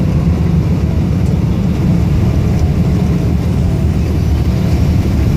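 Steady, loud low rumble heard inside the cabin of a Boeing 777-300ER on landing: engine and airframe noise with no pauses or sharp events.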